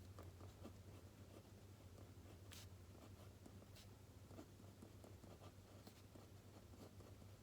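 Faint pen writing on paper: short scratchy strokes with a few light clicks, over a steady low hum.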